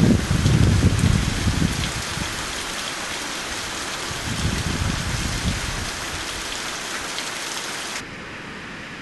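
Heavy typhoon rain pouring down, with gusts of wind buffeting the microphone as a low rumble in the first two seconds and again around the middle. About eight seconds in, the rain noise drops suddenly to a lower level.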